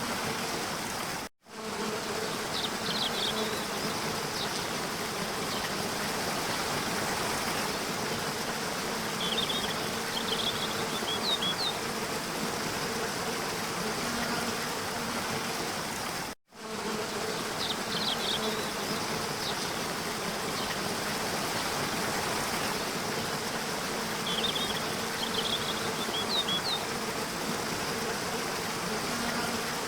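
Waterfall: a steady rush of falling water with a low buzzing hum under it and a few short high chirps. The sound cuts out for a moment twice, where the roughly 15-second recording loops and its pattern repeats.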